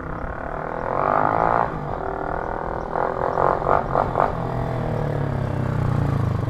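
Motorcycle engine running with a buzzy drone, blipped several times in quick succession about three seconds in, then settling to a steadier low note.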